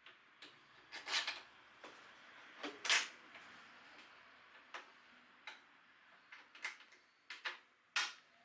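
Irregular light clicks and taps, about a dozen, with three louder ones, about a second in, about three seconds in and near the end; no engine running.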